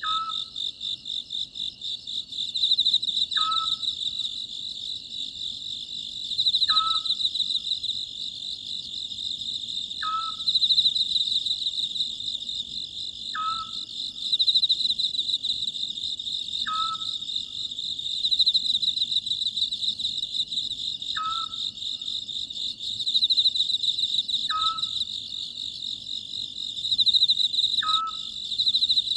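Oriental scops owl giving its short single call about every three and a half seconds, nine times, over a steady, pulsing chorus of night insects.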